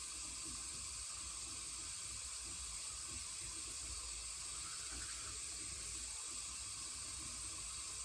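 Running water, a steady even rush from a bathroom tap or shower.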